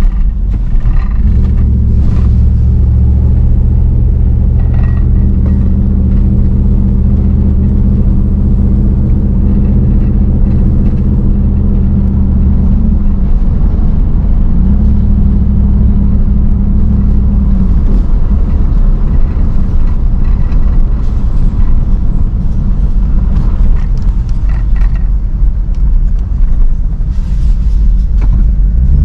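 Vehicle engine and road noise while driving, a steady low drone. About halfway through the engine note dips and then comes back up.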